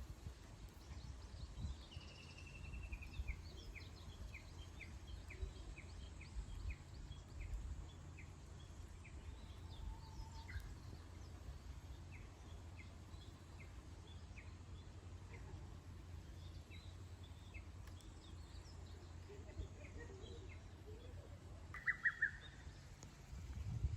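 Wild birds chirping, with series of short, evenly repeated high notes and a brief burst of calls near the end, over a steady low background rumble.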